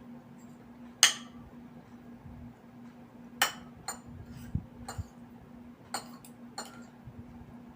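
Cutlery clinking against a plate while eating: one sharp clink about a second in, then about six lighter clinks, over a faint steady hum.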